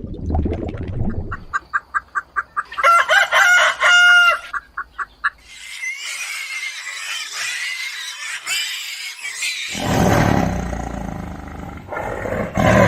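Animal calls: a quick run of short pitched calls a couple of seconds in, then longer, noisier calls, loudest in the last few seconds.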